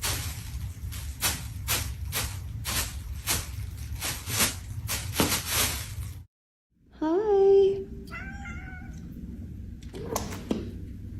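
A cat meowing: one call rising and then held at about 7 s, then a shorter, wavering meow. Before that, a run of rasping, noisy strokes about twice a second, then a sudden cut.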